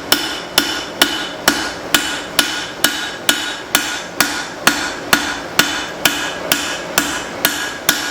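Hand hammer striking hot leaf-spring steel on an anvil in a steady rhythm, about two blows a second, each blow ringing briefly: a cleaver's bevels being forged in.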